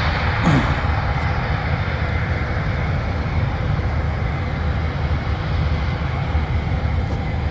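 V-22 Osprey tiltrotor's turboshaft engines and proprotors running steadily: a deep rumble with a faint steady high whine.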